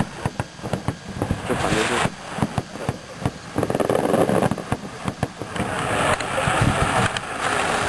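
Fireworks display going off in a rapid, irregular series of sharp bangs and crackles, with a hissing rush about two seconds in and again from about six seconds on.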